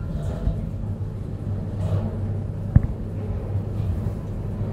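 Small hydraulic lift running: a steady low hum from the machinery during travel, with one sharp click about three seconds in.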